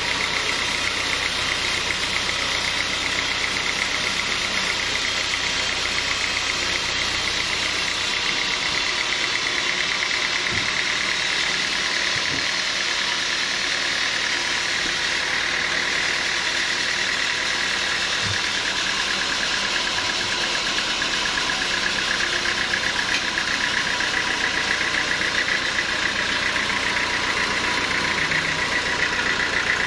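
Sawmill machinery running steadily, a continuous mechanical drone with no breaks.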